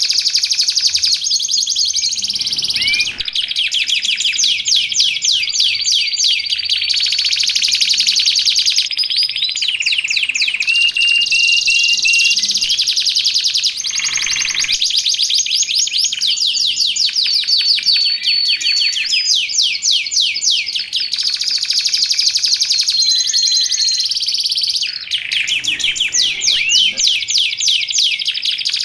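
Domestic canary singing vigorously, an almost unbroken high-pitched song of rapid trills and rolls with a few short held whistle notes.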